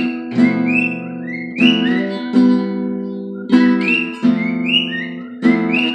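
Big Baby Taylor acoustic guitar playing a run of plucked chords, with a bird whistling short rising notes over the music.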